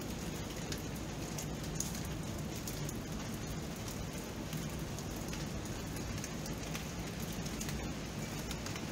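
Steady rain falling and hitting surfaces: an even hiss dotted with many small raindrop ticks.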